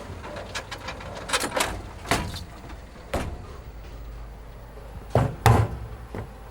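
A series of sharp knocks and clatters over a low steady hum, the loudest two close together about five seconds in.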